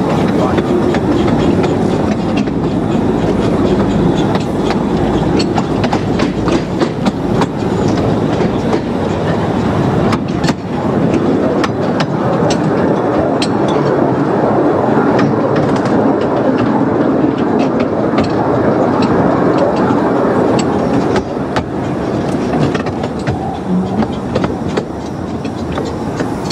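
Miniature 15-inch gauge train running along the track, heard from aboard a carriage: a steady rumble of wheels on rails with frequent clickety-clack from the rail joints, easing a little near the end as it runs towards the points.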